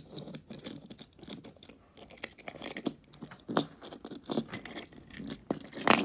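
Small plastic clicks and scrapes from a plastic transforming robot toy being handled, its parts knocking and rubbing together. The clicks come irregularly, a few a second, with short quiet gaps between.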